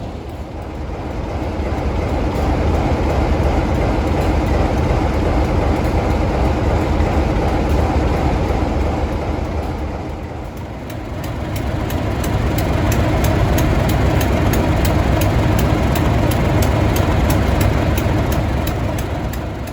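Heritage diesel locomotive and train running past, the deep engine drone swelling twice, with a fast, regular clicking of wheels over rail joints through the second half.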